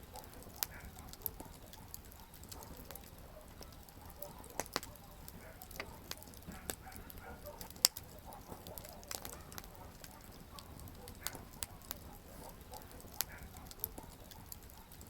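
Wood campfire crackling: irregular sharp pops and snaps over a low steady hiss, with one loud pop about eight seconds in.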